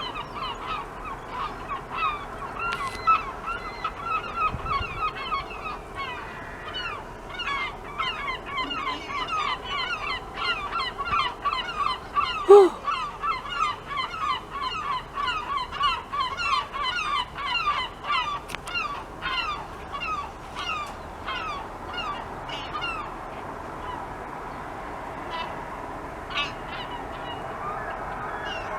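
A large flock of birds calling overhead: many short calls repeated quickly and overlapping throughout, with one louder call about halfway through.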